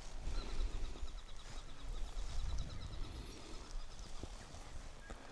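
A small bird calling: a faint, fast series of short, high ticking notes, over a low rumble of wind or handling on the microphone.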